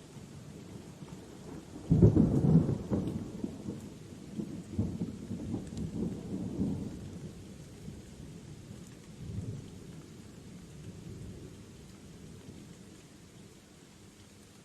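Thunder cracks suddenly about two seconds in, then rolls on as a low rumble that fades over several seconds, with one more swell before dying away. Light, steady rain goes on underneath.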